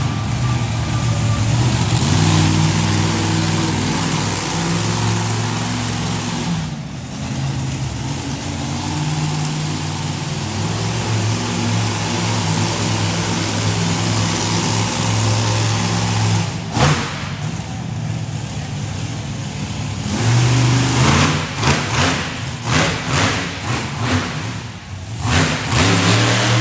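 Monster truck engine running hard at a steady high note, then revved in a quick series of throttle blips over the last few seconds.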